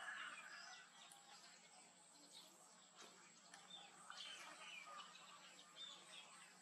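Near silence: faint outdoor background with scattered distant bird chirps over a steady faint high-pitched tone.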